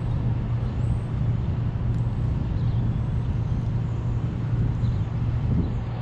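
A steady low drone of a running engine or motor, unchanged throughout.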